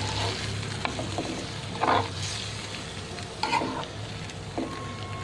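Chicken being stirred in a kadai with a spoon, with the steady sizzle of oil and a little water in the hot pan. The spoon scrapes the pan a few times, around two and three and a half seconds in.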